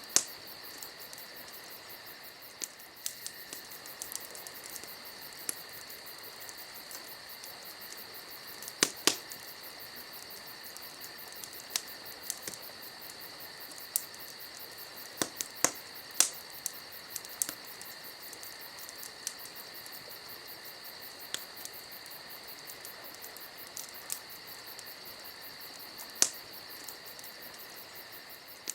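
Campfire crackling with scattered sharp pops, the loudest about nine seconds, sixteen seconds and twenty-six seconds in, over a steady chorus of crickets.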